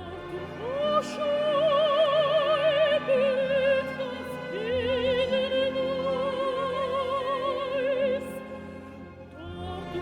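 Operatic soprano singing with orchestra: two long held notes with wide vibrato, each reached by an upward slide, the second one fading toward the end.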